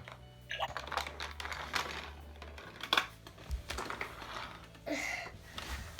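Plastic toy pieces clicking and clattering as they are handled, a quick irregular run of small knocks, with a brief pitched sound just before the fifth second.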